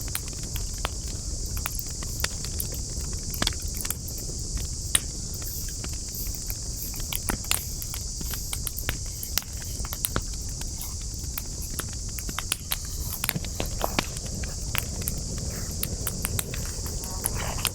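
Burning wood crackling, with frequent irregular sharp pops and snaps. Under it runs a steady high-pitched insect drone.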